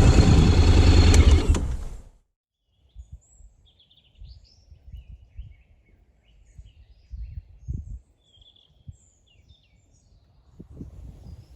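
Honda X-ADV 750 parallel-twin engine running, then shut off abruptly about two seconds in. Afterwards birds chirp in the quiet, with faint irregular low thumps.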